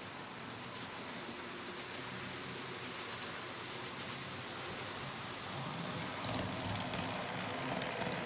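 N scale Athearn F59 locomotive and Bombardier coaches running on model track: a steady noisy clatter of small wheels on rail with a faint motor hum, getting louder about six seconds in.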